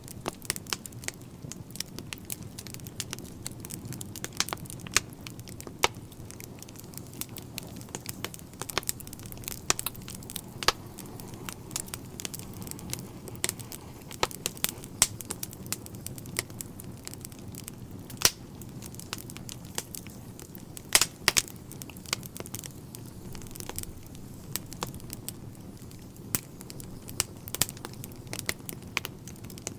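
Wood fire burning in a fireplace: a steady low rumble of flames with frequent irregular sharp crackles and pops from the logs, a few louder pops about two-thirds of the way through.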